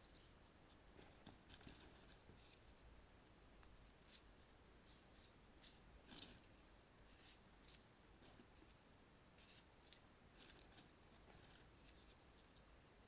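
Faint, irregular rustling and crinkling of origami paper being handled and folded by hand, a scatter of short dry crackles over a low steady hum.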